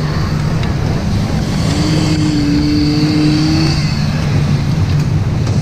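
Steady, loud low rumble on a river rapids raft ride, with a constant low hum running through it. A single held higher tone rises slightly about two seconds in and lasts about two seconds.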